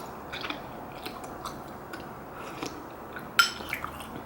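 Close-up chewing and wet mouth sounds of someone eating rice cake soup with dumplings: soft scattered smacks, with one sharper, louder sound about three and a half seconds in.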